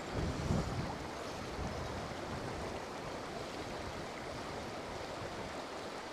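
Trout stream water flowing steadily, with a brief low rumble in the first second.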